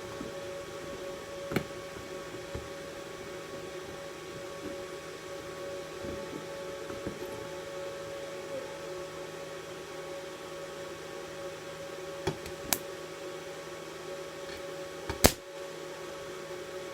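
Inverter welding machine switched on and idling, its cooling fan giving a steady hum. A few sharp clicks or taps sound over it, the loudest about fifteen seconds in.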